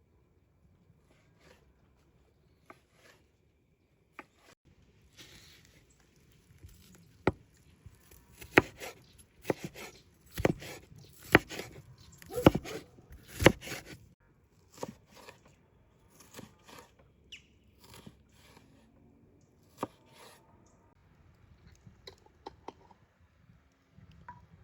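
Irregular sharp knocks and clicks, sparse at first, then coming thick and loud for several seconds in the middle before thinning out again.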